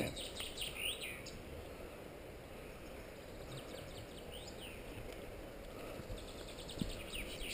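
Songbirds singing in short runs of quick, repeated chirps that come and go, over a steady low rumble.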